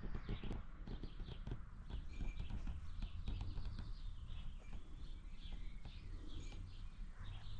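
Outdoor ambience: many short bird chirps over a steady low rumble, with scattered light clicks.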